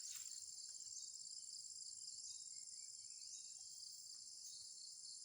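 Steady high-pitched trilling chorus of crickets and other forest insects.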